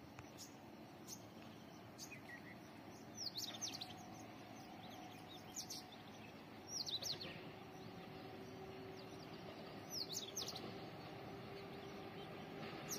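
A bird calling in short, quickly falling high chirps, four times a few seconds apart, over a faint steady low hum.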